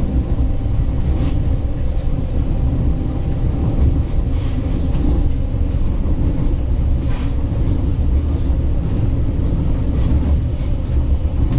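The interior of a 36WEd electric multiple unit running along the line: a steady low rumble of wheels on track, with brief high squeaks now and then.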